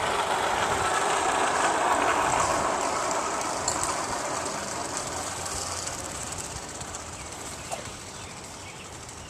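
Passing train, a rushing rumble that peaks about two seconds in and then slowly fades away.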